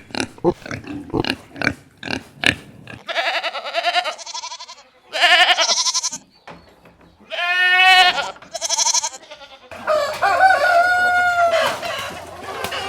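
Pig grunting in quick short grunts for the first few seconds, then a goat bleating four times in long wavering calls, and from about ten seconds in a rooster crowing.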